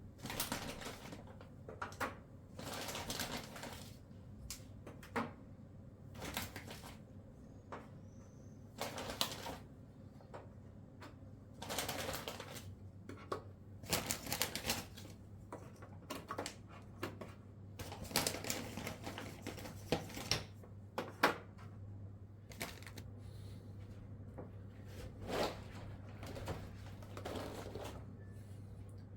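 Irregular clicks, taps and short rustles of objects being handled, with a steady low hum underneath.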